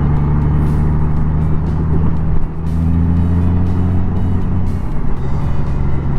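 Honda Gold Wing flat-six engine running at road speed under wind and road noise, its note shifting about two and a half seconds in. Music plays alongside.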